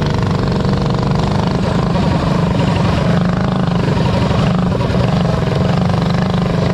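Several 212cc single-cylinder mini bike engines running hard together in a race, a dense, steady drone.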